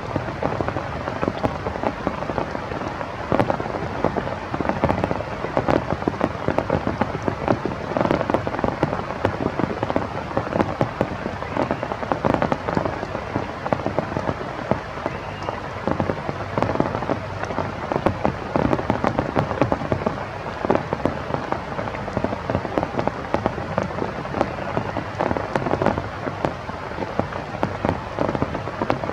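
Steady rain with a dense patter of individual drops striking a surface close by.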